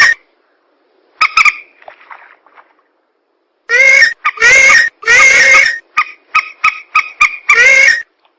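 Recorded bird-lure calls of rails (mandar) played very loud and distorted: harsh, nasal repeated calls, with a pair of short notes about a second in, then a run of longer calls from about three and a half seconds that breaks into quicker, shorter notes before a last long call.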